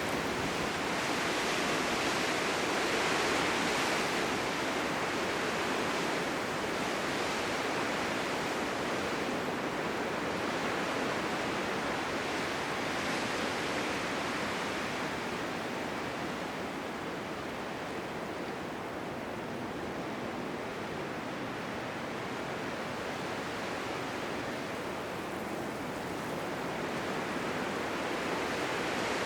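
Blizzard wind: a steady rushing noise that swells and eases slowly, strongest in the first few seconds and again near the end, softer in the middle.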